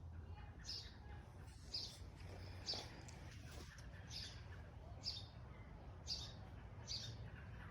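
A songbird chirping outdoors, one short high chirp about once a second, over a faint steady low rumble.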